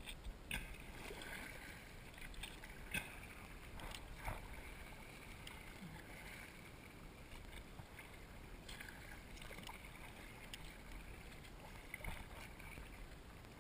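Faint water lapping and sloshing against a kayak hull, with a few light knocks.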